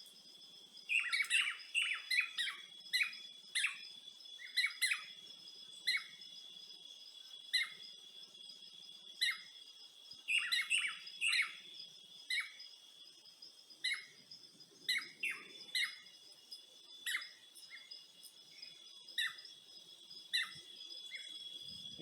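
Birds chirping: many short, sharp chirps, often in quick clusters, over a steady high-pitched drone.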